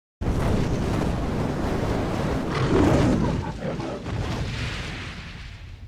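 Loud rumbling noise with a deep low end, starting suddenly, swelling about three seconds in, then fading away.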